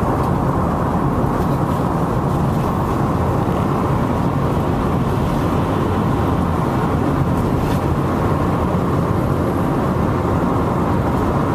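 Steady road and engine noise inside a vehicle's cabin while driving at freeway speed.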